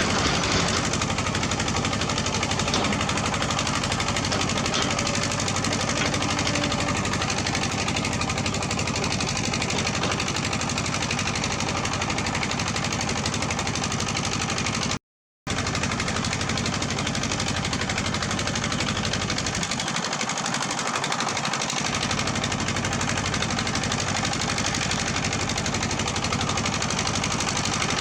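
Heavy diesel earthmoving equipment running, a steady loud engine noise with a rapid rattling pulse. The sound cuts out completely for a split second about halfway through.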